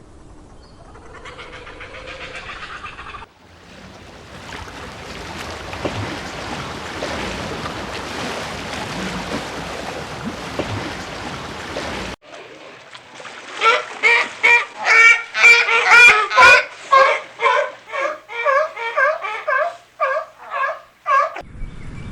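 Waterfowl calling in a rapid run of loud calls, about two a second, for the last several seconds, after some seconds of water splashing.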